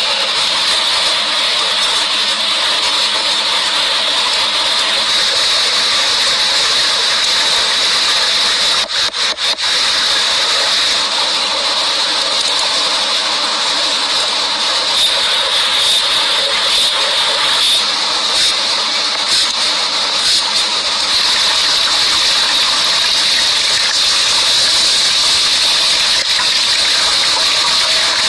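A steady, loud hissing rush that dips briefly a few times about nine seconds in.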